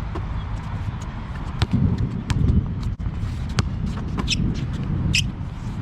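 Basketball bouncing on an outdoor court, a scattering of sharp irregular bounces, over a steady low rumble.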